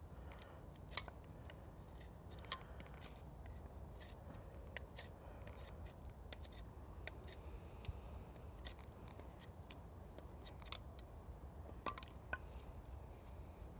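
Wood campfire crackling: irregular sharp pops and snaps over a low steady rumble, with a few louder pops scattered through.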